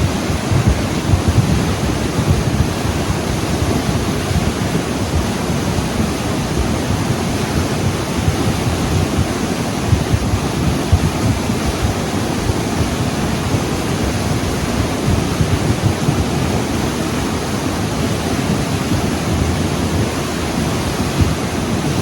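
Steady, loud rush of moving water, deep and continuous with no breaks.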